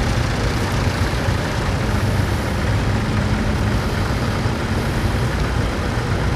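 Vintage tractor engine running steadily with a low, even drone.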